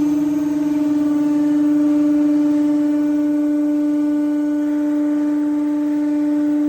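Lifting device of a bubble washing machine running as its bar rises, a loud steady hum held at one pitch.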